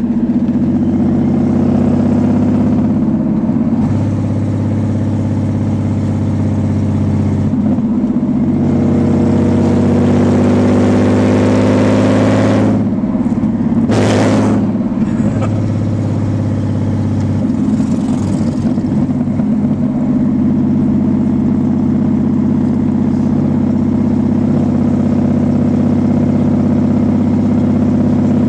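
Nissan 300ZX's naturally aspirated V6 running with no exhaust fitted, a loud open drone while driving. About eight seconds in the engine pitch climbs for a few seconds under acceleration. Just past halfway there is a brief rush of noise, and the engine then settles back to a steady drone.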